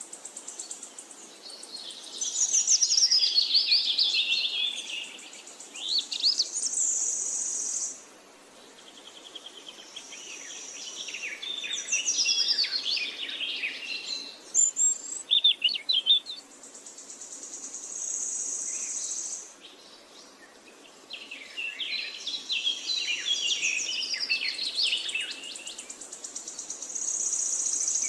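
Parakeets chirping and chattering in bouts of quick, high notes, with long steady high-pitched notes between the bouts.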